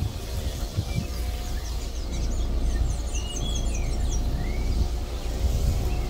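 Birds calling: scattered short chirps and a quick run of high notes about two to three seconds in, over a loud steady low hum.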